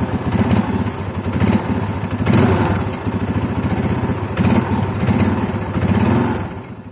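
A small engine running with a rapid firing pulse, its level swelling and easing several times, then fading away near the end.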